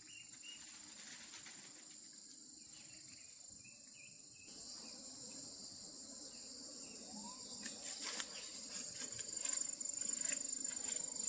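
Insects buzzing in a steady, high-pitched drone that starts a few seconds in and grows louder toward the end, with a few faint bird chirps near the start and some light clicks in the middle.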